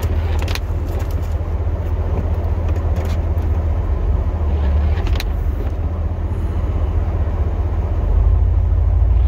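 Pickup truck's engine running with a steady low rumble that grows a little louder about eight seconds in. A few faint clicks sound over it.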